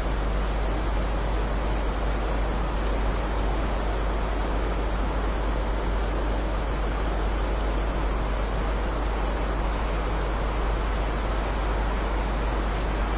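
Steady rain: an even hiss with a deep low rumble underneath.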